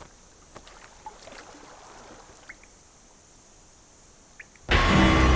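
Faint trickling cave water with a few small clicks and splashes. Near the end, loud, deep, ominous music cuts in suddenly.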